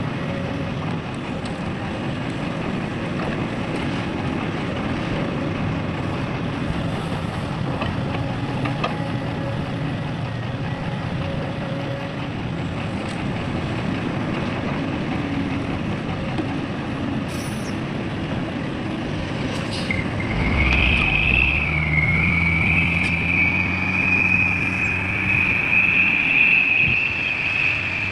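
Heavy mining vehicles running, a steady low engine rumble. About 20 seconds in, a loud high-pitched whine with a lower hum joins and holds.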